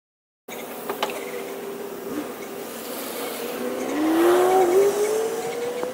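A motor vehicle's engine over steady noise, with its pitch rising and getting louder in the second half as if accelerating. The sound starts suddenly about half a second in and cuts off abruptly near the end.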